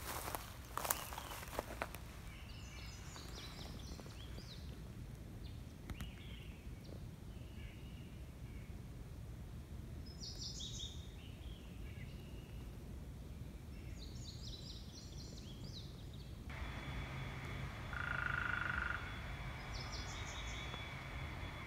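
Wild birds singing in short chirping phrases every few seconds over a faint outdoor background, with a few footsteps at the start. About sixteen seconds in, a distant engine drone comes in and carries on.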